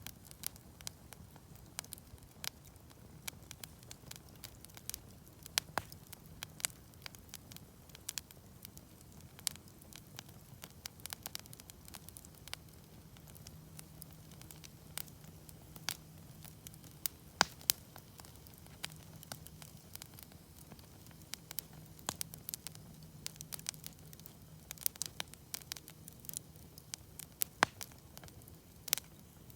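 Wood campfire crackling, with irregular sharp pops and snaps from the burning wood, a few of them much louder than the rest.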